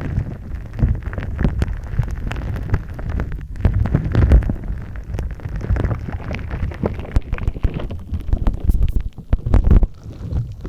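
Gritty shaved-ice (kakigori) slime being squeezed and kneaded by hand close to a binaural microphone: dense, irregular crackling and crunching with squishy handling underneath.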